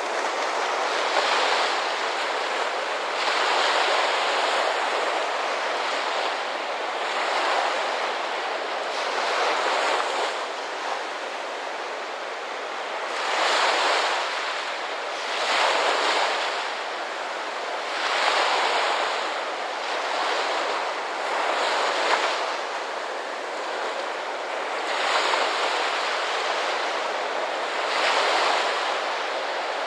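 Ocean surf washing on the shore, a steady rush that swells and eases every few seconds as waves come in.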